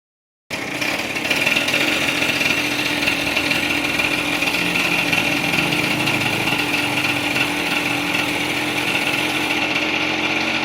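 A small motor running steadily at one constant pitch, with no revving, starting suddenly about half a second in.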